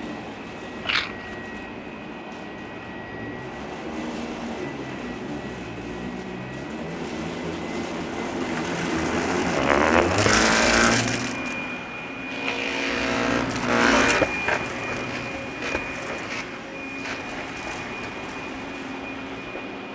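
Russell Hobbs Athena 2 Pet upright vacuum running on a thick, fluffy rug, its motor whine steady. Two loud rushing surges come about halfway through and a few seconds later, and the whine sits a little higher after the first. The brush roll struggles with the deep pile.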